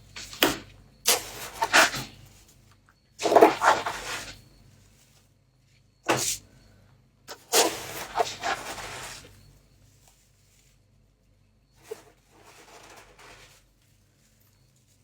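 Freezer frost crunching and scraping as it is gathered and packed by hand. It comes in six irregular bursts of about a second each, with short quiet gaps between them.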